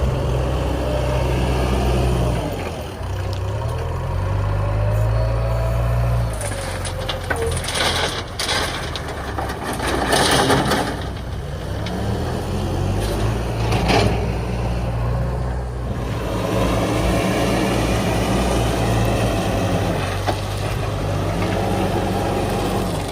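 Heavy diesel engine of earthmoving machinery revving up and down repeatedly as it works. A few seconds of loud rushing, clattering noise come in the middle, about 6 to 11 seconds in, and again briefly near 14 seconds.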